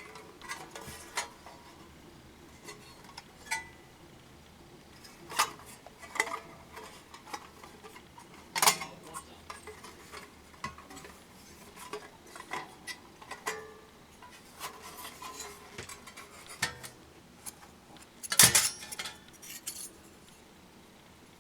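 Thin metal pieces clinking and clattering as they are handled: a long run of separate knocks and clinks, some ringing briefly, with the loudest cluster near the end.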